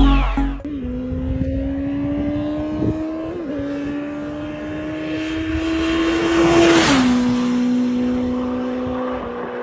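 Motorcycle engine accelerating through the gears. Its pitch climbs steadily, dips briefly about three seconds in as it shifts up, and climbs again. It then drops about seven seconds in and holds steady, just after a rise in rushing noise.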